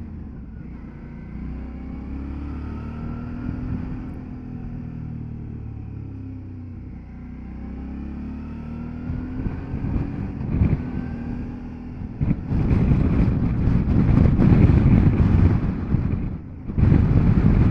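Motorcycle engine running as it is ridden through bends, its pitch rising and falling with the throttle. About two-thirds of the way through, loud wind noise on the microphone takes over, dropping away briefly near the end.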